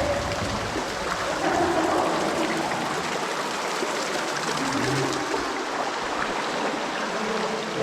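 Water running and trickling steadily into a flooded mine cavern.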